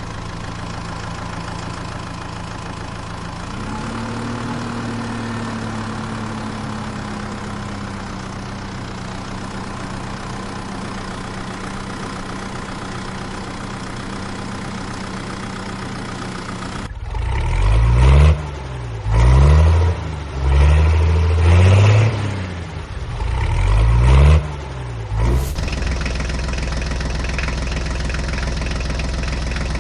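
Tractor engine running steadily, then revved up and down about five times in quick succession before settling back to a steady run.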